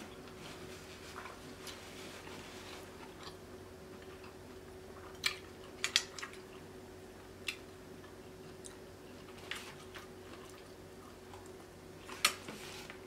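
Close-miked chewing of a mouthful of seafood (prawn), with soft mouth sounds and a few sharp smacking clicks, mostly in the middle and again near the end.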